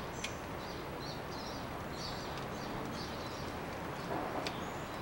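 Small birds chirping over and over in the background against a steady hiss, with a light click shortly after the start and another near the end.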